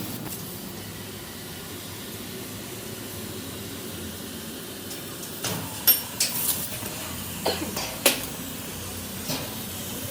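Steady workshop background noise, then a handful of sharp metallic knocks and clanks from the second half on, the two loudest about six and eight seconds in.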